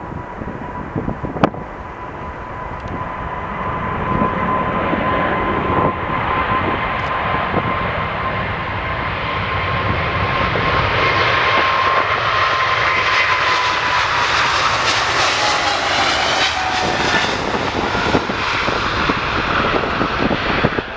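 Jet airliner's engines passing on departure: a rushing roar that builds steadily, with a steady whine that drops in pitch past the middle as the aircraft goes by.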